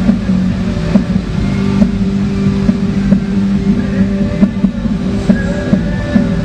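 International Harvester 966 pulling tractor's engine running hard at high, steady revs under the load of a pull, with scattered sharp cracks over the drone.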